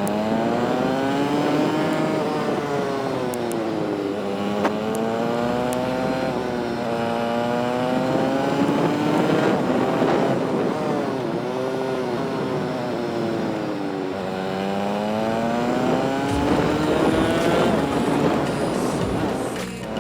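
TVS Apache RTR 200 4V's single-cylinder engine running under way, its pitch climbing and falling back several times as the bike accelerates and eases off. There is a brief dip in the engine sound just before the end.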